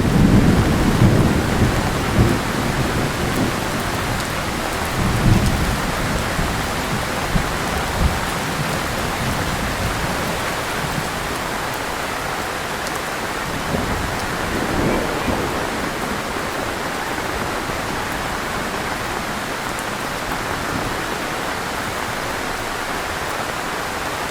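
Heavy rain falling steadily. A low rumble, thunder or wind, is loud at the start and fades over the first few seconds; a couple of weaker low swells come later.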